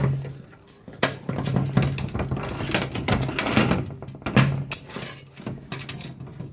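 Metal scooter parts being handled and fitted, the compression fork and spacer going together: an irregular run of clicks, knocks and light rattles.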